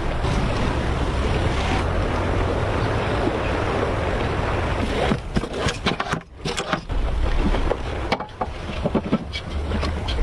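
A steady rushing noise with a low rumble of wind on the microphone, giving way after about five seconds to a run of scattered knocks and clicks.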